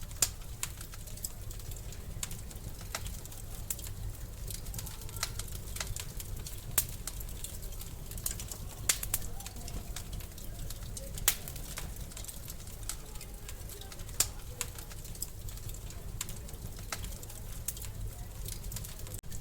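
Wood fire crackling in a fireplace: a low steady rumble of flame with irregular small snaps and several sharp, louder pops spread through.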